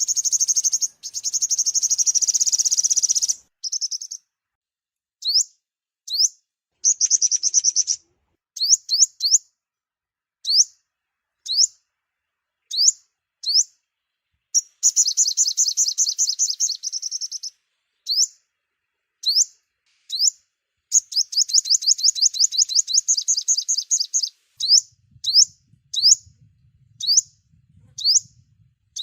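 Sunbird (the 'five-coloured sunbird' of Vietnamese bird-keepers) song played as a trapping lure: high, rapid trills of a few seconds each, near the start, about a quarter of the way in, at the middle and about three quarters of the way in, between runs of single sharp rising chirps about one a second.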